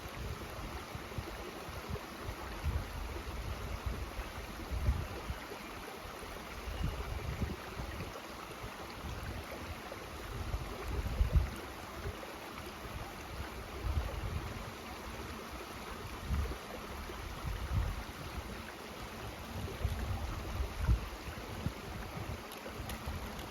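Mountain stream rushing steadily. Irregular low rumbles of wind buffet the microphone, the strongest about halfway through.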